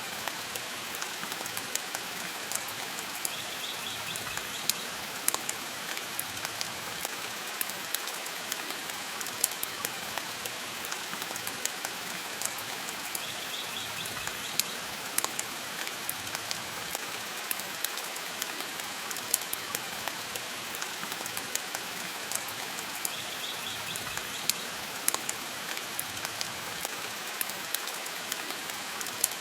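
Steady rain hiss mixed with a wood fire crackling in a fireplace, with frequent sharp pops scattered irregularly through it.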